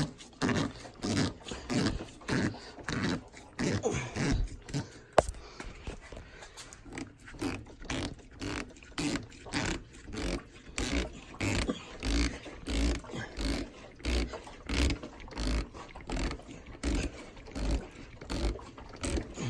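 Rubber motorcycle hand grip squeaking and rubbing against the handlebar in short, repeated strokes as it is twisted and pushed onto the hairspray-wet bar. The grip is a tight, hard fit.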